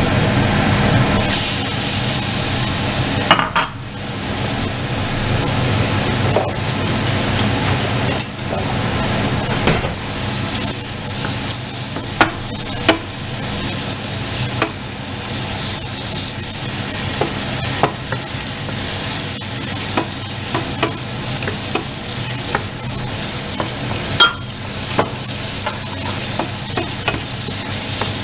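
Raw prawns and squid sizzling as they go into hot oil in a non-stick frying pan, the hiss jumping up about a second in, then frying steadily while a wooden spatula stirs them, with a few sharp taps of the spatula against the pan.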